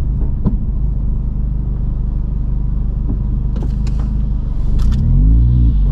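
Mini car engine running steadily, heard from inside the cabin while driving, with a brief rev that rises and falls about five seconds in.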